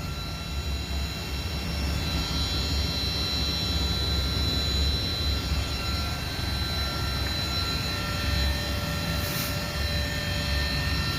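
Panasonic inverter air-conditioner compressor running steadily at full power on a test bench, driven by a repaired inverter control card. It makes a continuous low hum with a steady high-pitched whine above it, and a brief hiss about nine seconds in.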